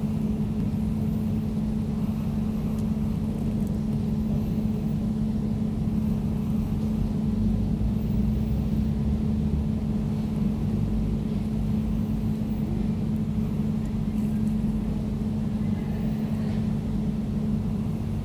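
Air conditioner running steadily: a constant low hum over a deep rumble.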